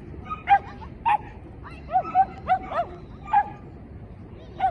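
A dog yipping over and over, about nine short high yips in uneven bursts.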